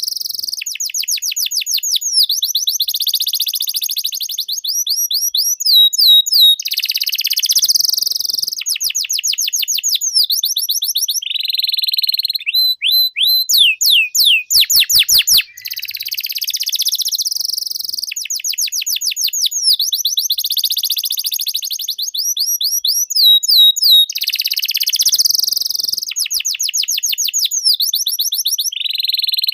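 Domestic canary singing continuously: fast trills of repeated high notes, switching to a new trill every second or two, with hardly a pause between phrases.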